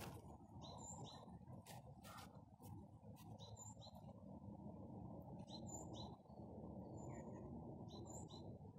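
Faint outdoor ambience with short, high bird chirps in small clusters about every two to three seconds, over a steady low rumble, with a few soft clicks.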